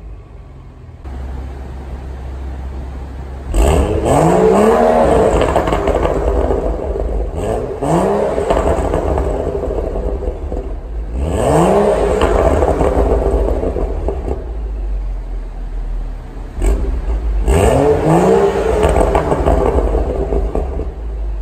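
BMW N55 turbocharged inline-six revved through an aftermarket exhaust with its valves open in loud mode: it idles, then is blipped four times, three longer revs and one short one, the pitch climbing and falling back to idle each time.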